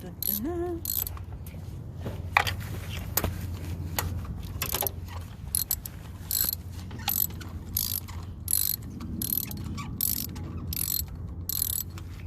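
Socket ratchet wrench clicking, scattered at first and then in a steady run of short back-swing strokes about two a second, as it loosens fasteners on a 2004 Honda CR-V engine during spark plug and coil removal.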